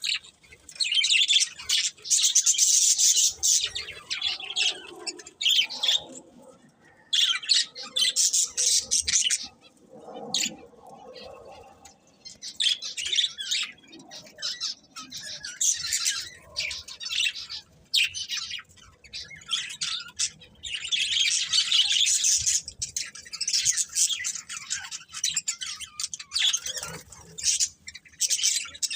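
Budgerigars chirping and chattering in bursts of rapid high-pitched calls, with short lulls between the bursts.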